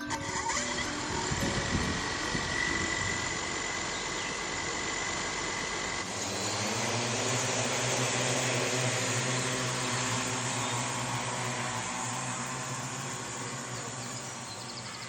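Multirotor drone's rotors running with a steady whir. About six seconds in, the sound shifts to a steadier low hum.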